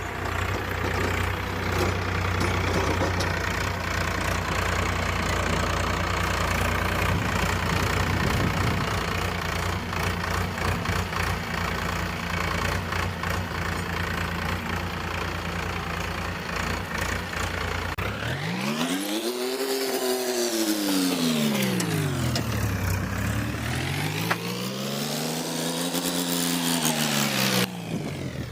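Powertrac Euro 50 tractor's three-cylinder diesel engine running steadily under work. About two-thirds of the way in it revs up and back down twice, then the sound cuts off sharply.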